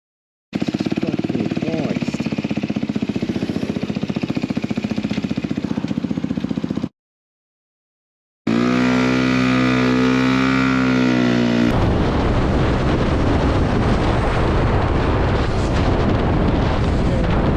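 Motorcycle engine running as heard from an onboard camera, then a short silent cut. After it, a steady pitched tone holds for about three seconds, followed by a rushing noise like wind on the microphone of a moving bike.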